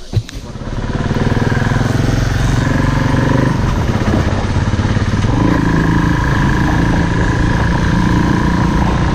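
Off-road motorcycle engine running under throttle. It comes in about a second in and its engine note shifts twice as the bike is ridden.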